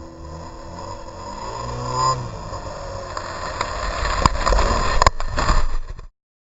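Snowmobile engine running and revving, growing louder, with a few sharp knocks in the second half; the sound cuts off suddenly about six seconds in.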